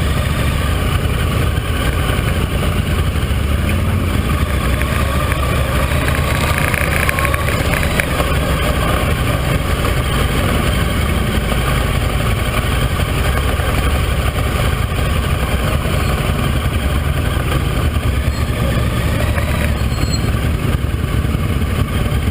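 Motorcycle engine running steadily, with a brief rise in pitch about seven seconds in.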